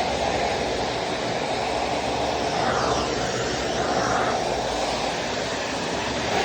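Vacuum cleaner running steadily, with brief shifts in tone about three and four seconds in.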